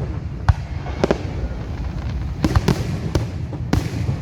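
Fireworks going off: a run of irregular sharp bangs and cracks over a steady low rumble of distant explosions.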